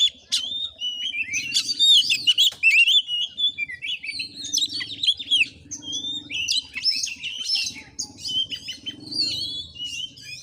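Oriental magpie-robin (kacer) in full, continuous song: a fast, unbroken run of chirps, trills and whistled slurs with no pauses, the rambling non-stop delivery that keepers call 'konslet'.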